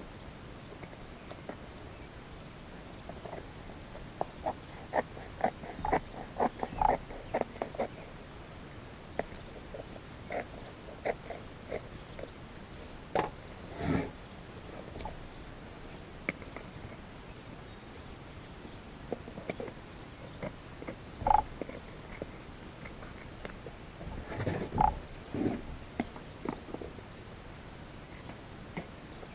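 Scattered clicks, taps and a few sharp snaps from stapling a leather cover onto a plastic-and-foam ATV seat and handling it. A steady, high, pulsing trill runs underneath.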